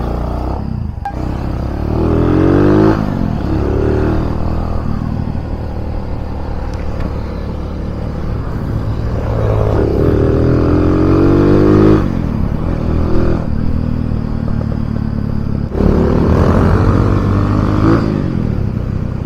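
Kawasaki W175's single-cylinder engine, breathing through a size 30 flat-slide carburetor, running under way. Its pitch climbs three times, each climb dropping back sharply.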